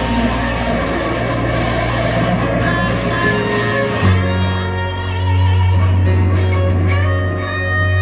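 V-bodied electric guitar with a new bolt-on neck being played: sustained, ringing notes, with a new lower note struck about halfway through and held while higher notes ring over it.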